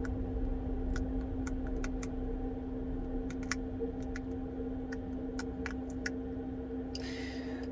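Small sharp clicks, about ten scattered irregularly, as a tool works the flex cable connectors of an iPhone 12 loose, over a steady low electrical hum; a brief hiss near the end.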